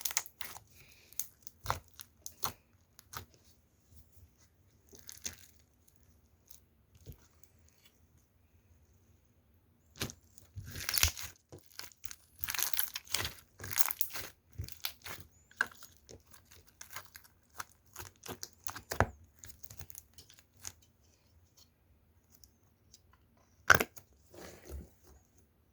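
Foam-ball slime being squished, giving crackling, crunchy pops and snapping air bubbles. Scattered clicks, a dense run of crackling about ten to fifteen seconds in, and one sharp loud pop near the end.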